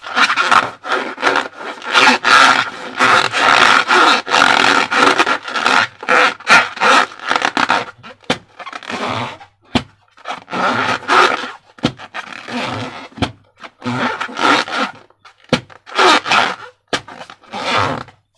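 Rubber balloons and slime being handled: rough rubbing and scraping in irregular bursts, with a few sharp clicks in the second half.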